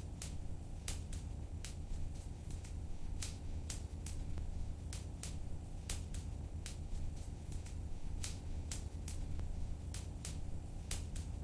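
Wood fire crackling in a fireplace: irregular sharp pops, about two a second, over a steady low rumble.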